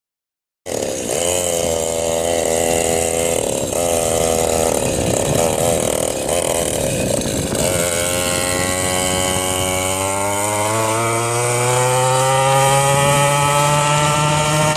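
Small mini bike engine running, uneven at first, then climbing steadily in pitch through the second half as it speeds up.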